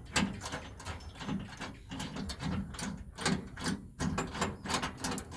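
Irregular metallic clicks and clinks of bolts and hand tools being handled as tow bar bolts are started by hand.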